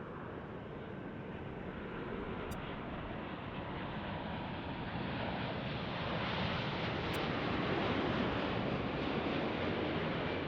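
Jet airliner passing near the runway, its engine noise a broad rushing sound that swells over several seconds to its loudest about two-thirds of the way in, then eases slightly.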